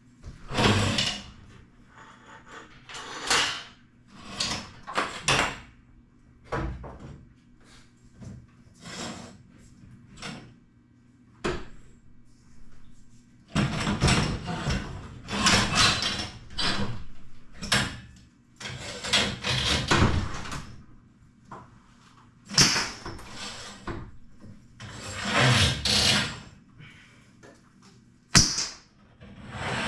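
Irregular scraping, rattling and clanking of garage door hardware being worked on, in uneven bursts of up to about two seconds with short pauses between.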